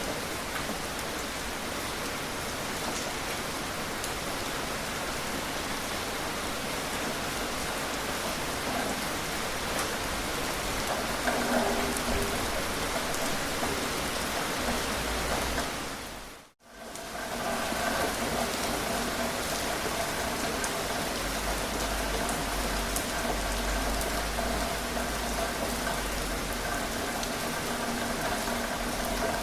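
Steady rain falling, an even hiss of drops. About halfway through it fades out to near silence for a split second and comes straight back.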